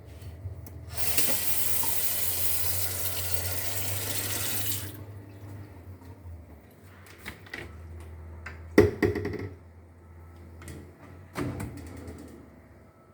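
Water tap running in a sink for about four seconds, then cut off, followed by a series of clicks and knocks; the loudest knock comes about nine seconds in.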